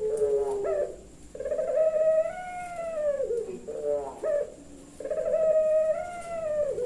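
Puter pelung dove cooing: the end of one long coo, then two long drawn-out coos of about two seconds each. Each coo is held fairly level and falls at the end, and short quick falling notes come between them.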